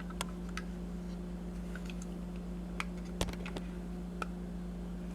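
Scattered light clicks and taps from handling a vintage Britains die-cast toy Land Rover, over a steady low electrical hum; the sharpest click comes a little past the middle.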